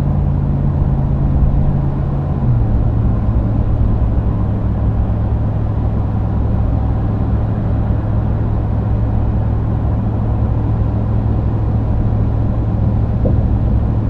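Ram 2500's 6.4 Hemi V8 through a Magnaflow 19200 cat-back exhaust, droning at road speed. The low drone note drops a step in pitch about two and a half seconds in, then holds steady.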